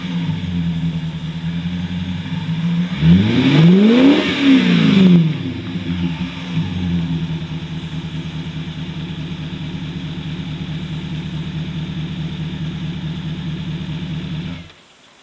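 BMW 7 Series engine running through a one-off quad-outlet exhaust: a single rev about three seconds in that rises and falls back within a few seconds, then a steady idle. The sound cuts off suddenly near the end.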